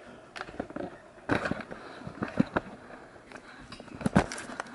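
Handling noise from a phone camera being fumbled and moved: rustling with a few knocks, one about a second in, one in the middle and one near the end.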